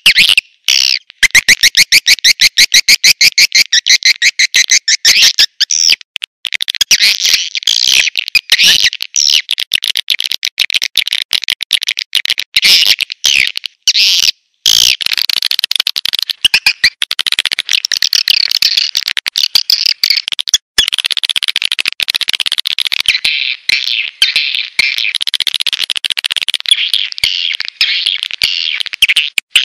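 Recorded swiftlet lure call ('suara tarik walet'): rapid, high chirping twitters in fast trills, broken by many brief, abrupt gaps. This is the kind of call track played to draw swiftlets into a nesting house.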